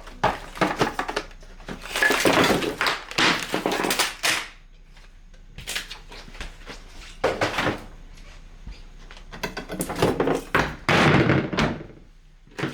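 Handling noises in a small room: bursts of rustling and clattering with thunks, like packages and a refrigerator drawer or door being moved about, in several bouts separated by short pauses.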